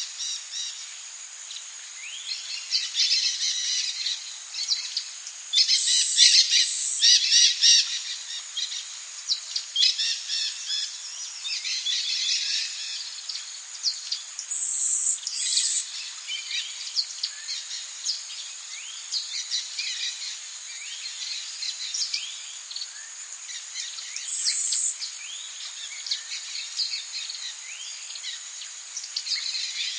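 Tropical rainforest birds chirping and calling densely over a steady, high-pitched insect drone. Three short, louder bursts come about six, fifteen and twenty-five seconds in.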